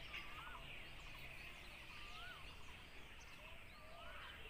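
Birds calling in the background: a whistled call that rises and falls, repeated about every two seconds, with scattered short high chirps over a faint steady high hiss.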